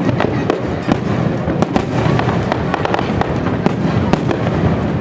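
Fireworks display going off in rapid succession: a dense run of sharp bangs and pops over a continuous low rumble.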